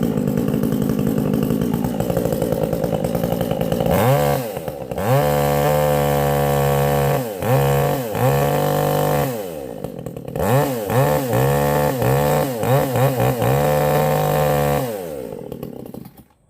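Vevor 62cc two-stroke chainsaw running loud just after a cold start. It runs steadily for about four seconds, is then revved up and down repeatedly with several quick throttle blips, and dies away as it is shut off near the end.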